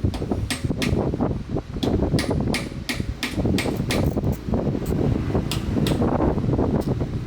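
A run of sharp, irregular knocks or taps, roughly two a second, over a steady low rumbling noise.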